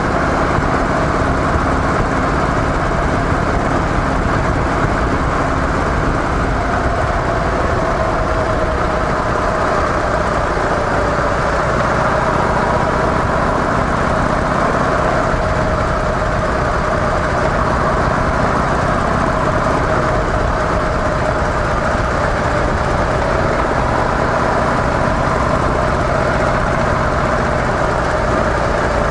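Harley-Davidson CVO Softail Deluxe's Twin Cam 110 V-twin on stock mufflers, running steadily with only slight changes in pitch.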